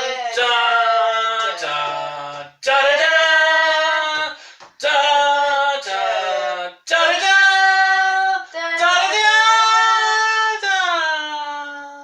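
Singing: long held, gliding notes in about five phrases with short breaks between them, ending near the close.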